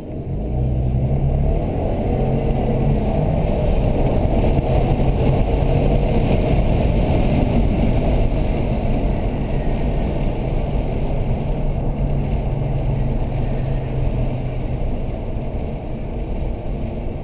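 2008 Subaru Legacy GT's turbocharged flat-four engine running at a steady cruise with road and tyre noise, heard from inside the cabin. The engine note rises about a second in and then holds steady.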